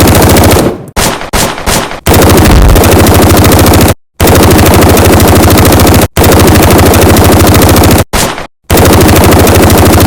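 Automatic gunfire sound effect: rapid machine-gun fire in long, very loud bursts of about two seconds each, broken by short pauses.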